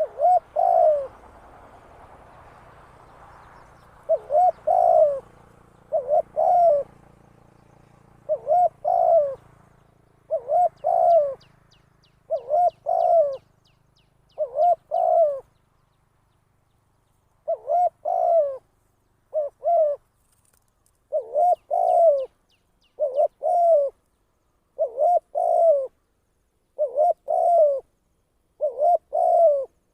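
Spotted dove, a caged decoy bird, cooing over and over: a short two-part coo about every two seconds, with a longer pause about halfway through. Faint high chirps sound in the background.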